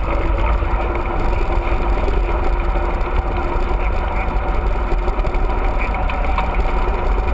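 Steady wind buffeting and rolling rumble from a mountain bike moving along a trail, with a deep rumble dominating.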